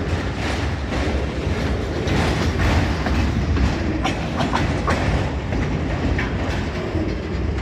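Freight train cars rolling past: a steady rumble with wheel clickety-clack over the rail joints, and a few short, sharp clanks or squeaks about four to five seconds in.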